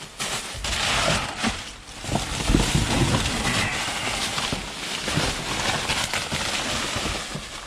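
Rustling, crinkling and knocking of boxes and plastic packaging being rummaged through and handled, irregular and continuous, with a low rumble of handling noise a couple of seconds in.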